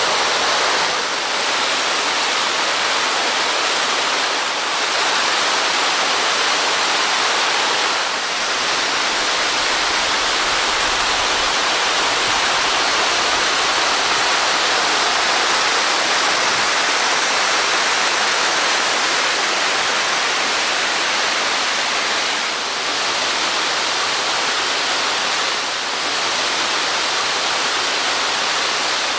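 Steady rushing of water falling over a small waterfall about 6 m high.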